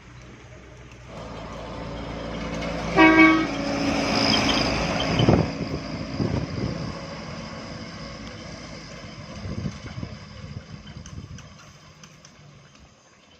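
A vehicle horn gives a short toot about three seconds in, over the noise of a vehicle that grows louder, passes and then fades away near the end.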